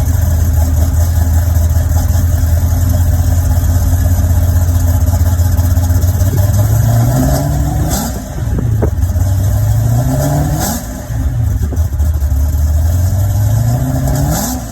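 Chevrolet Monte Carlo SS V8 idling steadily, then revved three times, each rev climbing and dropping back to idle; it sounds healthy.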